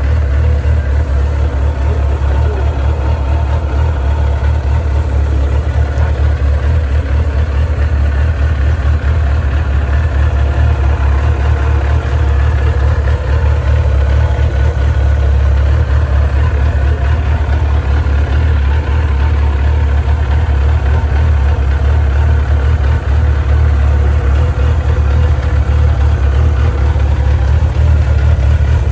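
1994 Suzuki RF900's inline-four engine idling steadily.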